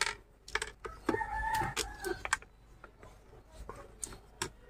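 A chicken calls once for about a second, with scattered sharp clicks of the plastic speaker casing being handled.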